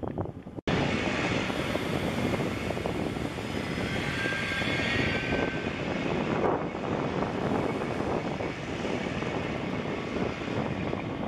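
Train rolling through a station: a steady rumble and hiss of wheels on rail, with a faint thin whistling tone about four seconds in. It starts abruptly after a short gap near the start.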